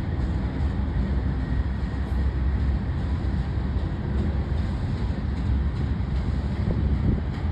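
Union Pacific manifest freight train rolling past, a steady low rumble of wheels on the rails.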